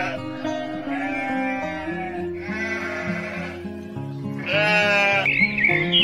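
Young goat kid bleating: three long, wavering bleats about a second and a half apart, over background music. Near the end a small bird starts chirping.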